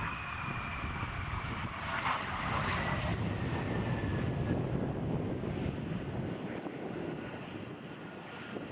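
F-22 Raptor jet flying past, its twin turbofan engines giving a high whine that falls slowly in pitch and fades about halfway through, over a low rumble that swells in the middle.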